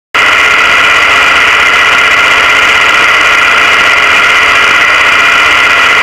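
A Chevrolet 400-cubic-inch V8 in a Honda drag car, running steadily without revving and recorded loud from inside the car.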